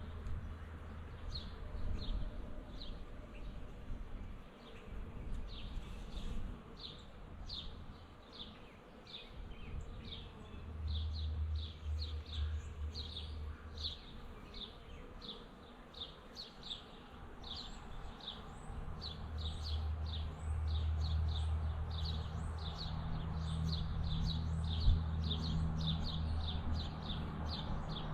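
Honeybees buzzing in a low drone that swells and fades, with a bird chirping over it in quick, repeated short notes.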